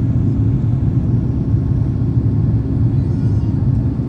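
Steady low rumble inside the passenger cabin of an Airbus A350-1000 climbing after takeoff: its Rolls-Royce Trent XWB-97 engines and the airflow over the fuselage.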